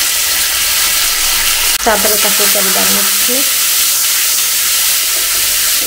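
Onions and a freshly added spice paste sizzling in hot oil in a kadai, stirred and scraped with a spatula. The sizzle runs as a steady hiss, with a sharp click about two seconds in.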